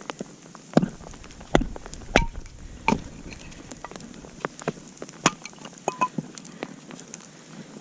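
Campfire burning and crackling, with irregular sharp pops, the loudest few in the first three seconds and another about five seconds in.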